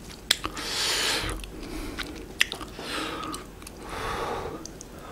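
Close-miked eating sounds from a person's mouth: chewing, with three breathy rushes of air and a few small wet clicks.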